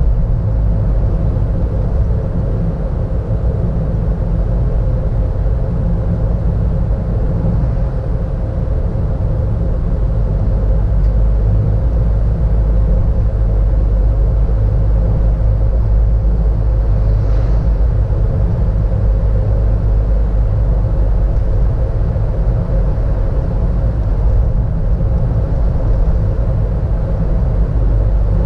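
Steady low rumble of a car driving, heard from inside the cabin: engine and road noise, with a faint steady hum.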